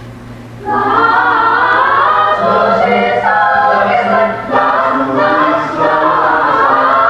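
A choir of many voices comes in together a little under a second in and sings sustained, shifting chords. Before the entry there is only a low steady hum.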